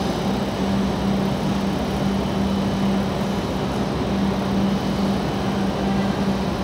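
W7 series Shinkansen train standing at the platform with its onboard equipment running: a steady mechanical hum with one low droning tone underneath.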